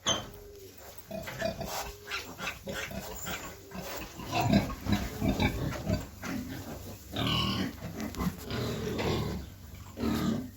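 Pigs at farrowing: newborn Large White piglets squeaking and grunting. There is a run of low grunts about four seconds in and a louder, higher squeal at about seven seconds.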